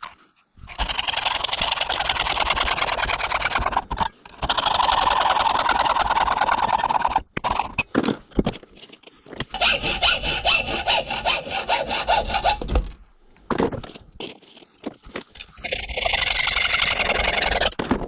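Hand file rasping across soft aluminium in four long spells of quick back-and-forth strokes, with short pauses and a few light knocks between, shaping a hole so a nut fits snugly.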